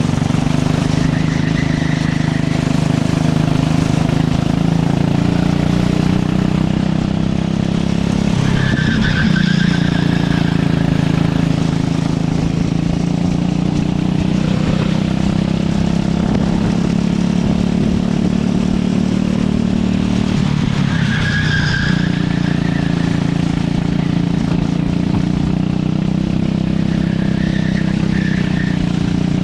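Racing kart engine running under load, its pitch climbing slowly and dropping sharply twice, about 9 and 21 seconds in, before rising again. Tyres squeal briefly at several points, most clearly at those two drops.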